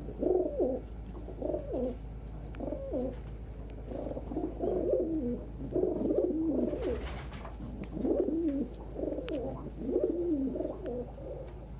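Domestic pigeons cooing: a run of low, wavering coos repeated over and over, with a brief rustle about seven seconds in.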